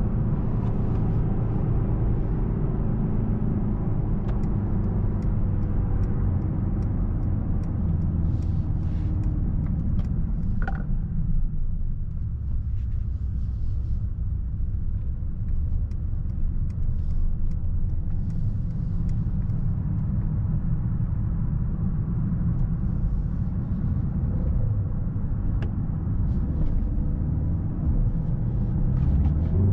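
Mercedes-AMG S63 E Performance's twin-turbo V8 running under way, with tyre and road noise as a steady low rumble. The engine note is stronger for roughly the first dozen seconds, then eases.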